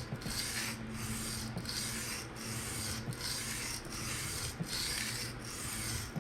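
PM60 steel knife blade scraping back and forth across a 220-grit diamond sharpening stone in steady, even strokes, about eight of them, with a brief break at each change of direction. Freehand bevel thinning on the coarse diamonds to raise a burr.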